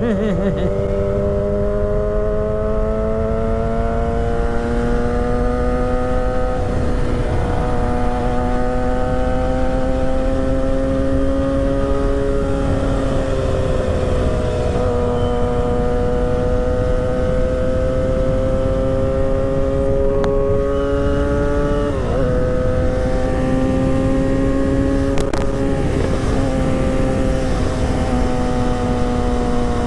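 2008 Yamaha YZF-R6's 599 cc inline-four engine running at cruising speed while riding. Its pitch climbs slowly and dips about three times, over a steady low wind rush.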